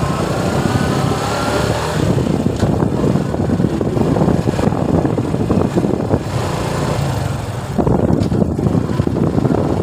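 Suzuki Gixxer motorcycle engine running steadily while riding, with road and wind noise.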